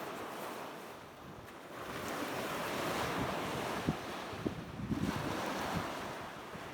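Sea waves washing on the shore with wind buffeting the microphone, the surf swelling again about two seconds in. A few sharp ticks come over it near the middle.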